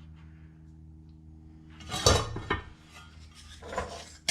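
Sheet steel and hand tools clanking on a metal workbench: one sharp metallic clatter about two seconds in, lighter clinks near the end, over a steady low hum.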